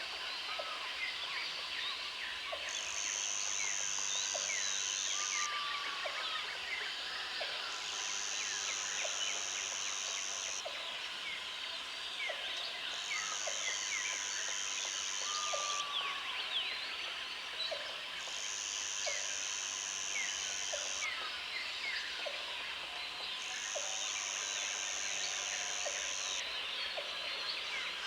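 Country outdoor ambience of calling wildlife: a high, steady buzz that switches on for about three seconds and off for about two, over many quick overlapping chirps and a faint short tick about once a second.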